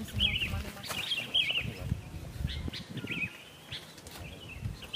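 A small songbird repeating a short, twisting chirp, roughly once a second.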